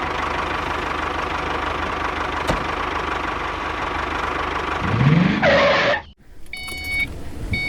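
Mini tractor engine running steadily. About five seconds in there is a short rising sweep, then the sound cuts off abruptly. Near the end, a few electronic beeps sound.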